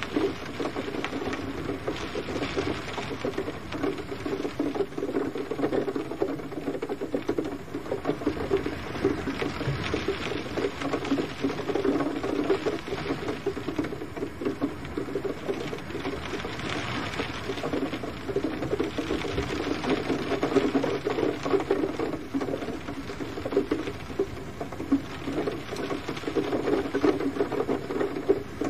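Gentle rain falling steadily, a dense patter of drops that swells and eases a little every few seconds.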